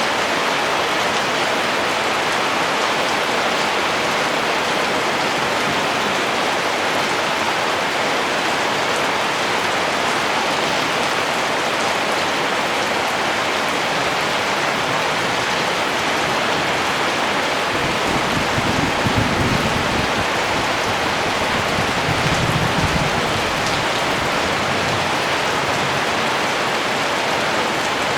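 Steady rain falling in a dense, even hiss. A low rumble comes twice, past the middle.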